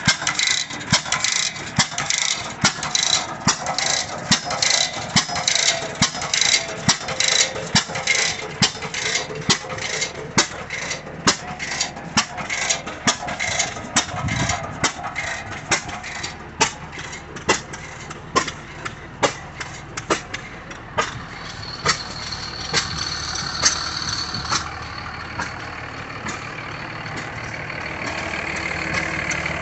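Old stationary engine running, firing in sharp regular beats about two to three a second, the beats spacing out and growing fainter in the second half.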